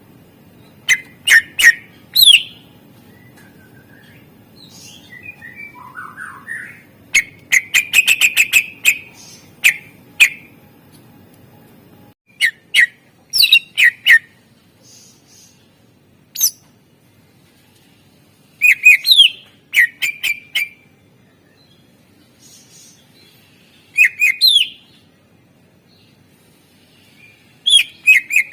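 Greater green leafbird (cucak ijo) singing in loud, separate phrases of sharp chirps and upward-sweeping whistles, with pauses of a few seconds between them and a fast run of clicking notes about eight seconds in; the song is studded with mimicked calls of other birds. A low hum underneath stops abruptly about twelve seconds in.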